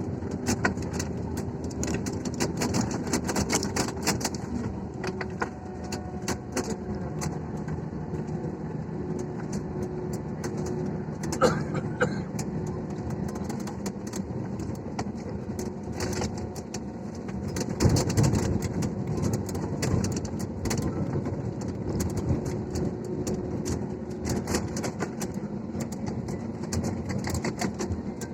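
Airliner cabin noise during landing: a steady hum of engines and airflow with frequent rattling of cabin fittings, and a louder thump about eighteen seconds in.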